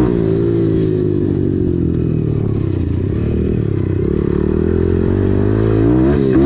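Small dirt bike's engine running on the trail, its note sinking as the bike eases off through the first few seconds, then dipping and revving up again near the end.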